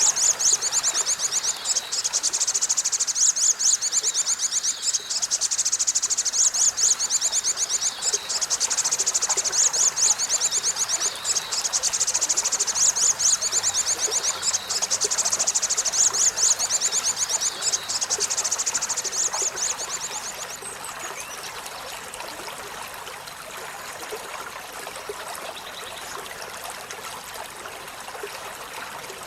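Olive-backed sunbird's high, rapid trilling song, going on with short breaks and stopping about two-thirds of the way through. A steady rush of running water carries on underneath and is left alone after the song stops.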